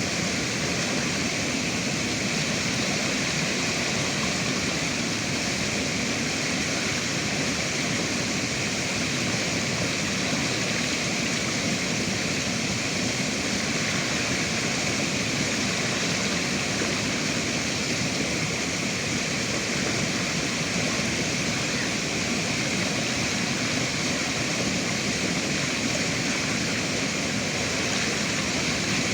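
Rushing river water, a steady, even flow with no changes.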